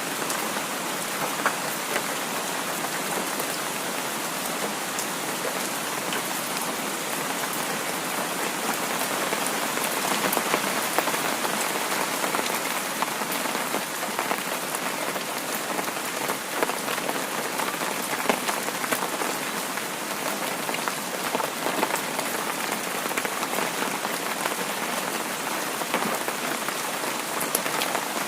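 Heavy rain falling steadily, a dense even hiss with scattered sharp ticks of individual drops striking a surface.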